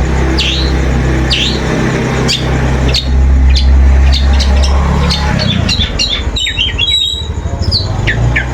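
Long-tailed shrike calling: sharp down-slurred notes repeated about twice a second, breaking into a fast chatter of short notes about halfway through. A low steady hum runs underneath, loudest around the middle.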